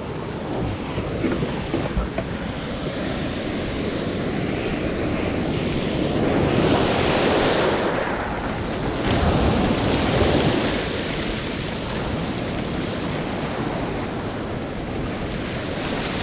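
Ocean surf breaking and washing in, with wind buffeting the microphone. The wash swells louder twice, about halfway through and again a few seconds later.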